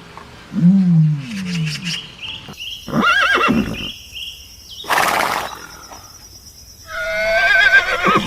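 A string of different animal calls, one after another: a low moaning call, a higher sliding call, a short rushing blast, then a wavering high-pitched call.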